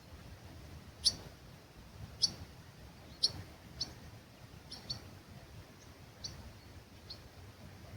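A small bird giving short, sharp, high chirps, about one a second and sometimes two close together, with a faint low rumble of breeze underneath.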